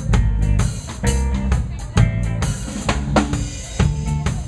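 Live band playing a laid-back reggae groove, led by drum kit and bass: a strong kick-and-snare hit about once a second, with quick cymbal ticks and bass notes between.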